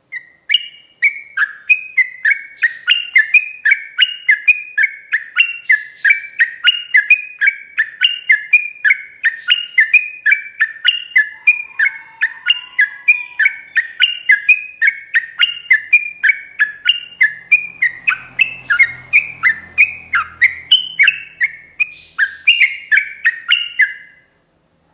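Yellow-vented bulbul (trucuk) singing a long unbroken run of rapid chirping notes, about four a second, stopping abruptly about a second before the end.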